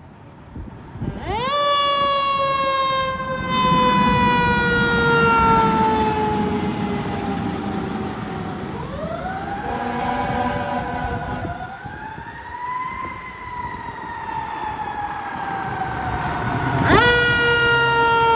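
Fire truck siren wailing. It winds up sharply about a second in and slowly falls in pitch, rises and falls again midway, then winds up sharply once more near the end, over the rumble of the truck.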